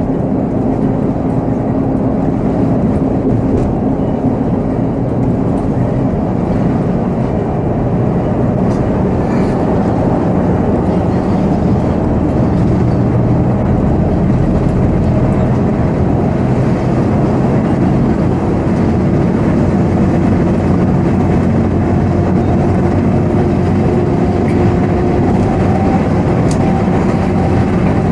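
Volvo B7R coach's diesel engine running under way with road and rumble noise, heard from the driver's seat; the engine note climbs slowly in the second half.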